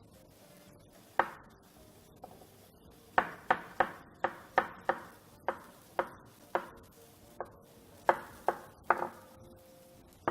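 Kitchen knife slicing tomatoes on a chopping board: about fifteen separate, uneven strokes knock the blade against the board, coming roughly two a second once they get going.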